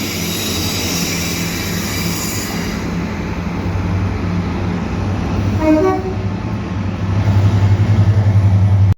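A train's engine running with a steady low drone and hiss, and a brief two-note horn toot about six seconds in. In the last two seconds the engine grows louder with a pulsing throb, then the sound cuts off suddenly.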